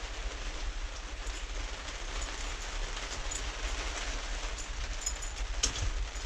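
Steady rain falling and pattering on a surface, with a low rumble underneath and a couple of sharp clicks near the end.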